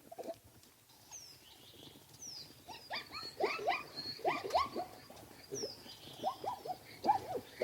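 Recorded animal calls: after a quiet first second, a rapid run of short yelping calls, many in quick pairs, with high bird chirps above them.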